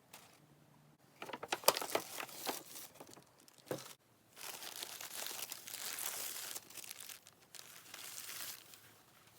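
Packaging being crinkled and unwrapped by hand: sharp crackles for a few seconds, then, from about four seconds in, denser rustling that stops shortly before the end.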